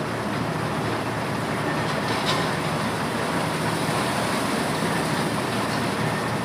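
Motorised corn thresher running steadily, a dense even mechanical noise with a couple of faint clicks.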